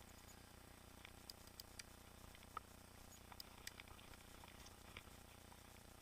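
Near silence with a faint hiss and a scattering of tiny, irregular clicks and ticks, the sharpest about two and a half seconds in.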